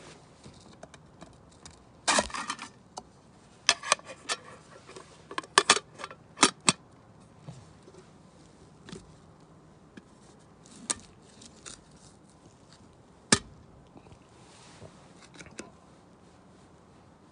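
Irregular sharp clicks, clinks and knocks of small hard objects being handled, clustered in the first half, with one single sharp knock near the end.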